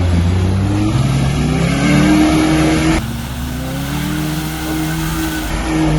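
Off-road vehicle's engine revving hard under load, its pitch rising and falling repeatedly as it tries to push through, with an abrupt break about halfway before the revving carries on.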